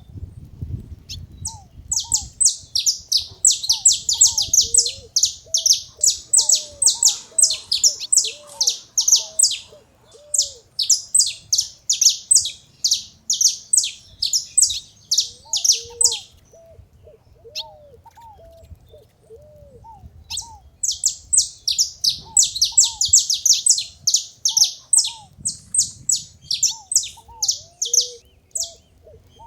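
Saffron finches chattering: fast runs of sharp, high chirps in two long bouts, separated by a pause of several seconds.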